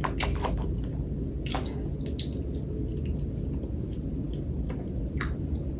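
Close-up chewing of chicken in sauce, with scattered short, wet mouth clicks over a steady low background hum.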